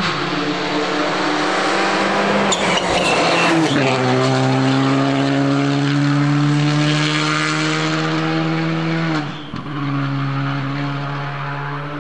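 Rally car engine at high revs under full throttle. Its note drops with an upshift a few seconds in, then holds and slowly climbs. About nine seconds in the throttle is briefly lifted before the engine pulls again.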